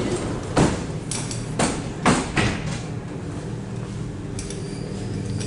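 Steady low hum of an ET2ML electric train, with a run of five sharp metallic knocks in the first half.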